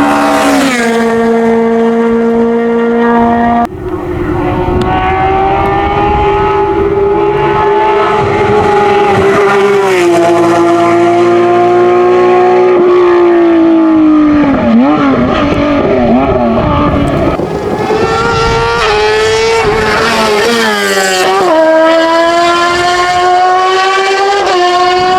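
Race car engines at high revs on a hillclimb run. The pitch climbs, then drops back in steps as the cars change gear and slow for corners. About four seconds in the sound switches abruptly from one car to another.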